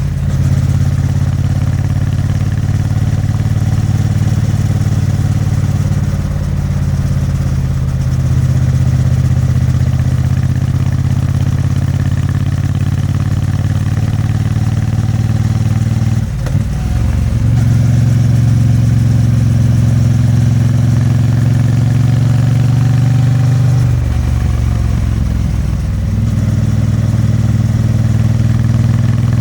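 Triumph Bonneville T100's 900 cc vertical-twin engine and exhaust running under way, a steady engine note. About sixteen seconds in the sound dips briefly and comes back louder. It changes again around twenty-four seconds.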